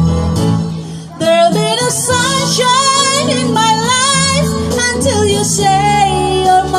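A song: a solo singing voice with wavering vibrato over instrumental backing. The music dips briefly, and the voice comes in just over a second in.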